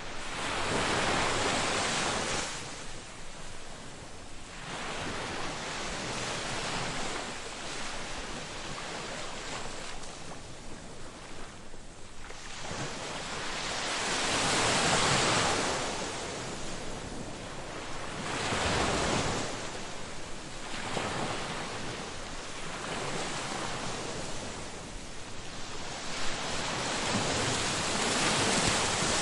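Ocean waves breaking and washing up on a beach: a steady surf hiss that swells and falls back, with the biggest breakers about a second in, midway, and near the end.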